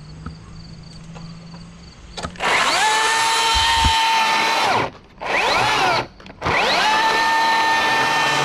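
An electric motor spins up to a steady whine, cuts out, gives a short rise-and-fall burst, then spins up and runs steadily again.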